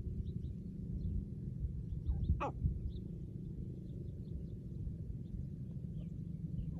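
A female white partridge gives one short, harsh call about two and a half seconds in, over a steady low rumble, with faint high chirps of small birds.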